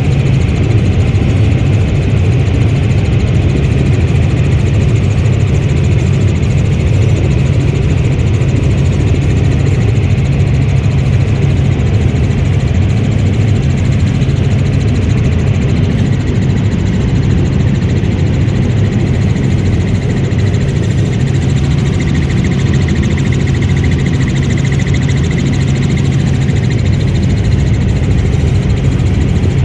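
Helicopter engine and rotor noise, a loud steady drone that does not change.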